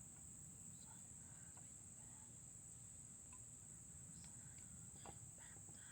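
Near silence with a faint, steady, high-pitched insect chorus, and a few faint clicks about four and five seconds in.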